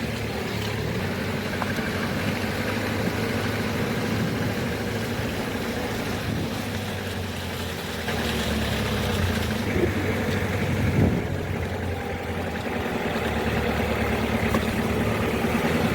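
Vehicle engine running steadily as the car drives along a narrow, rough road, getting a little louder for a few seconds past the middle.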